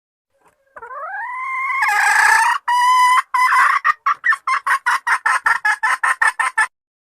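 Junglefowl hen calling, the call used to draw in males: a drawn-out rising note, two longer harsh notes, then a quick run of short clucks, about five a second, that stops abruptly near the end.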